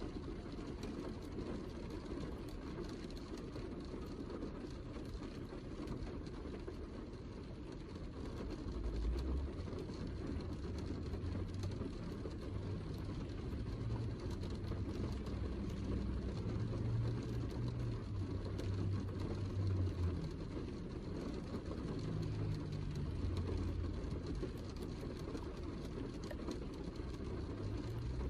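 Heavy rain falling steadily, a dense patter of drops over a hiss. From about a third of the way in, an uneven low rumble comes and goes beneath it.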